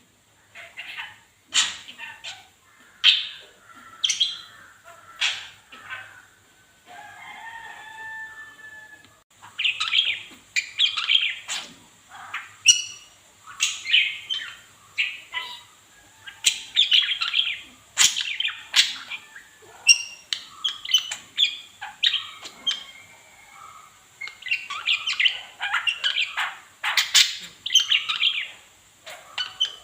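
Pet lovebird chirping: many short, sharp chirps in quick runs, with a brief lower warbling stretch about seven seconds in.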